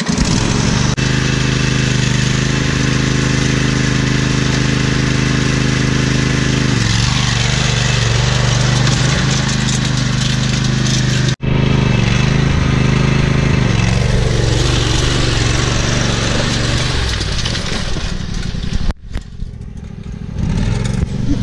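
Small tractor engine running hard at high throttle, its note changing several times as the clutch is dumped to launch the tractor into a wheelie. The sound cuts off abruptly twice.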